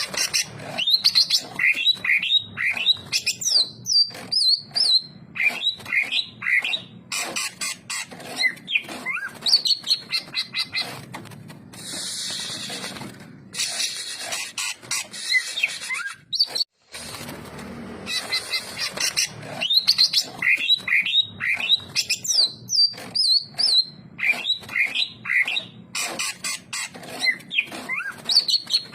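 Green leafbird (cucak ijo) singing a fast, varied stream of chirps and whistles. Partway through there is a short stretch of hiss and then a sudden brief dropout, after which the song starts again.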